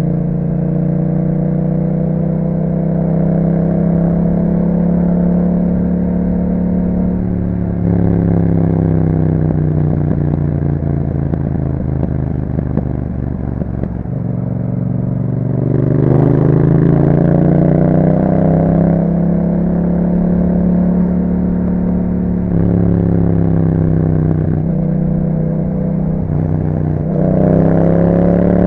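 Yamaha MT-07 parallel-twin engine through an aftermarket Akrapovic exhaust, riding under acceleration. The pitch climbs and then drops at each upshift, several times over. It eases off briefly around the middle, then pulls harder and louder.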